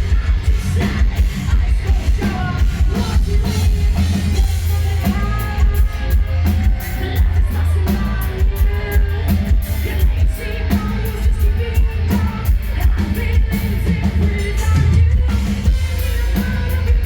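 Live heavy metal band playing loud, with pounding drums, heavy bass and distorted guitars, and a singing voice over the top.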